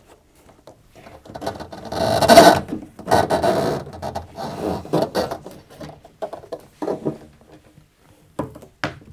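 Samsung ecobubble washing machine's plastic drain hose being pulled out through the bottom of the machine, rubbing and scraping against the casing in several irregular bursts, loudest about two seconds in.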